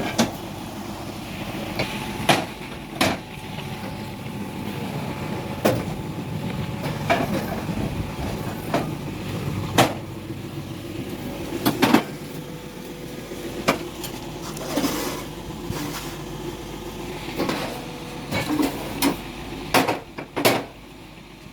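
Concrete block-making machinery running with a steady mechanical hum, broken by about a dozen sharp metallic clanks at irregular intervals, some a second apart and some several seconds apart.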